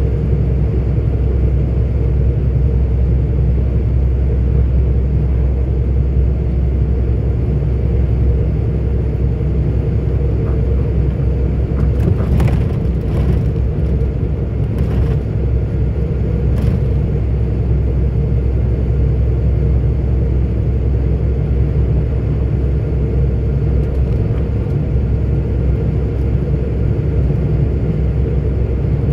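A 44-ton articulated truck at road speed: a steady, low engine and road rumble, with a few faint clicks in the middle.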